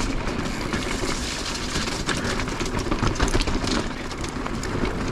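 Electric mountain bike rolling over a rough rocky gravel trail: tyres crunching and the bike rattling with many irregular clicks over a steady rumble.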